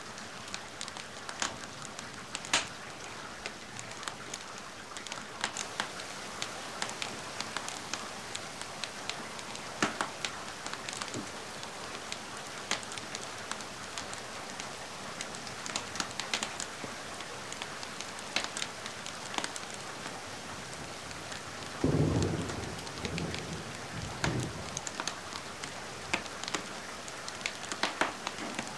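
Steady rain mixed with a crackling fireplace, sharp pops and ticks scattered throughout. Late on, a low rumble of thunder rolls for two or three seconds and is the loudest sound.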